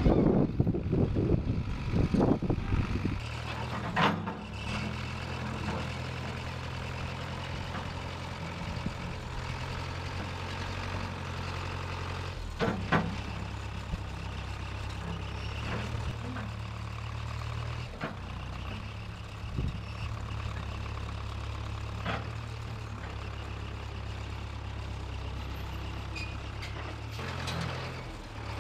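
1968 Case backhoe's engine running steadily, with louder surges in the first few seconds. A few sharp knocks stand out over it.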